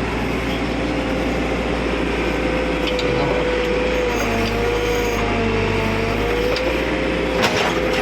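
Backhoe loader's diesel engine running steadily, with a wavering whine above it. A single knock comes near the end.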